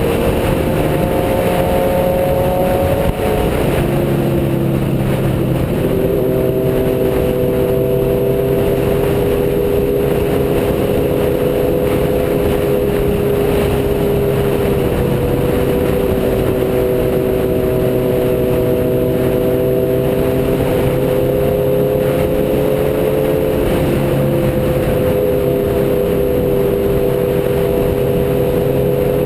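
Motorcycle engine running at a steady cruise under heavy rushing noise. Its note drops briefly about three seconds in, like a gear change, and then shifts slightly a few more times.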